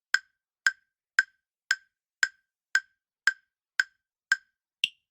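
Clock-tick countdown sound effect: sharp, even ticks about two a second, ten in all, with the last tick higher in pitch.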